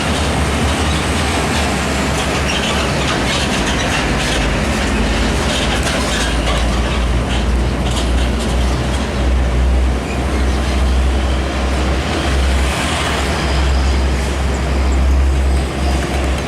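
Heavy trucks passing on a flyover: a loud, steady low rumble of diesel engines and tyres, with scattered knocks and rattles from the loads and the road.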